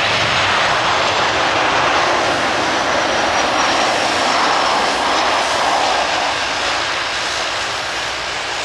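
KLM passenger jet coming in to land, its engines heard as a loud, steady jet noise that is strongest for the first six seconds or so and then eases slightly.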